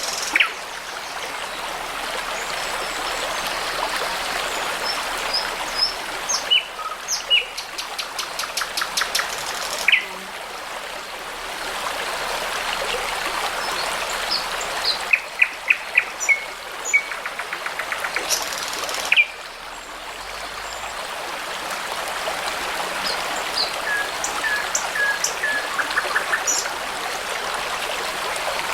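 Brook babbling steadily, with songbirds singing over it in short phrases of chirps, high whistles and rapid trills. The water's level shifts abruptly a few times.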